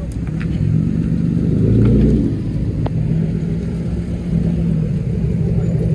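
A car engine running close by, low-pitched, swelling to its loudest about two seconds in and then running on steadily.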